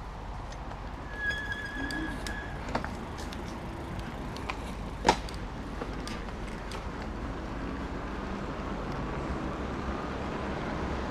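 Road traffic rumbling in the background, growing slightly louder near the end. A steady high tone sounds for about a second just over a second in, and there is a single sharp click about five seconds in.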